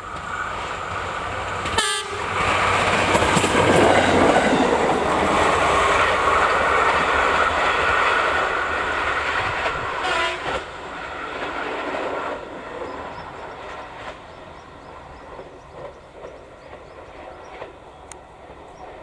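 Train passing close by on the line, its wheels clattering over the rail joints; the sound builds about two seconds in, stays loud for about ten seconds, then fades as the train moves away.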